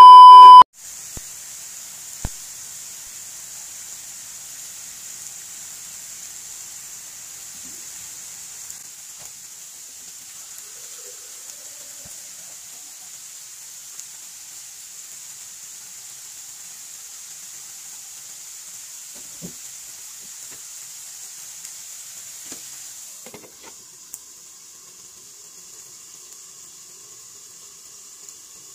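A short, loud test-tone beep at the very start, then meat frying in a wok over a gas burner: a steady sizzle with a few light clicks. The sizzle drops a little about 23 seconds in, when a glass lid goes on the wok.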